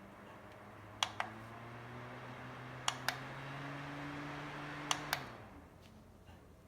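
Handheld fan's speed button clicked three times, each a quick press-and-release double click, over the small motor's hum and rush of air. The hum and airflow step up after the first two presses; after the third the fan switches off and the motor winds down, falling in pitch and fading out.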